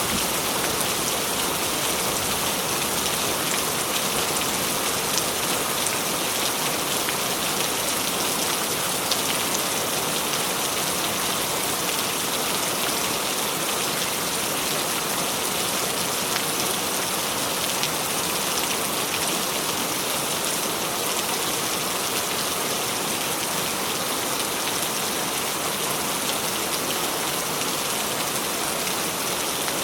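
Steady rain falling, a dense even hiss of drops with fine patter.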